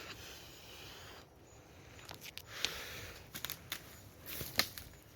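Someone walking through brush: a steady rustle, then a run of sharp cracks and clicks in the second half, like twigs snapping underfoot.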